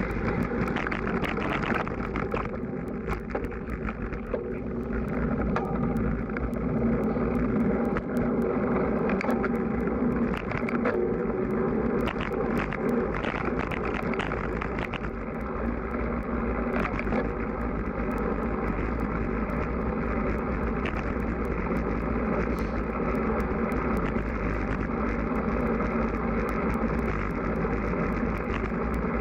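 Strong wind buffeting the microphone of a camera riding on a moving road bike: a steady, heavy rush of noise, deepest in the low end, with the bike's running noise underneath.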